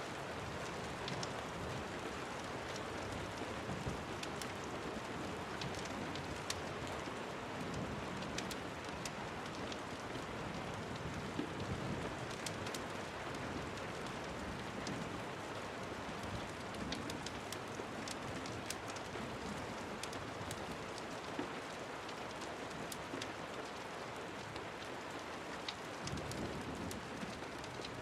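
Steady rain falling, an even hiss with scattered sharp little clicks throughout.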